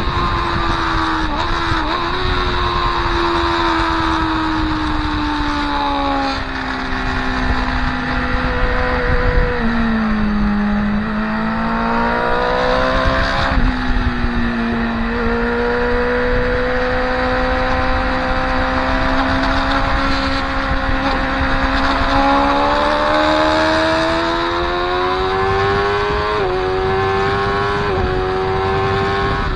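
Track-day motorcycle's engine heard from on board with wind rush. The engine note falls as the bike slows through a corner, with gear changes along the way, then climbs steadily under acceleration, shifting up twice near the end.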